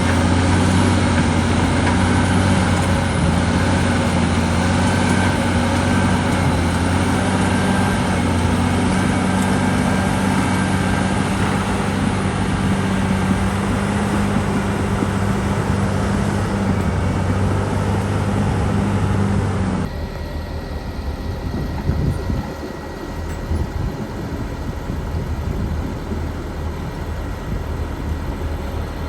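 Cat D6R2 bulldozer's diesel engine running steadily. About twenty seconds in, the sound drops suddenly to a quieter, duller running.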